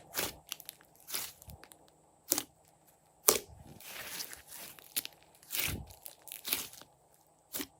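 Hands pressing and pulling sticky glossy slime, giving a series of short wet pops and crackles, about eight in all, several of them sharp snaps.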